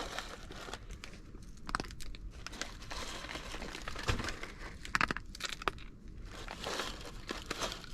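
Plastic MRE pouch of corn nuggets being torn open and crinkled in the hands, with irregular crackling rustles and clicks.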